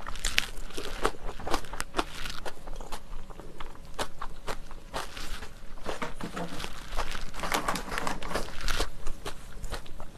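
Close-miked eating sounds: crunchy chewing of a mouthful of jajangmyeon and a side, with many sharp, irregular wet mouth clicks.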